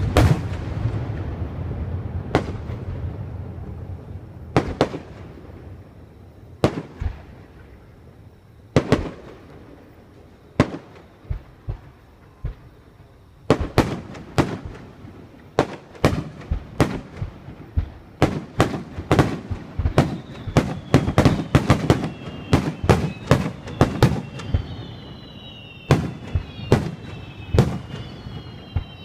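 Fireworks going off: single echoing bangs about every two seconds, then from about halfway a rapid, dense barrage of bangs, with thin high whistling tones that dip in pitch joining in during the last third.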